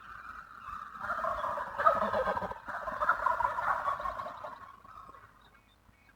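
Wild turkey gobbling: a loud, rapid rattling call that runs for a few seconds and fades out about two-thirds of the way through.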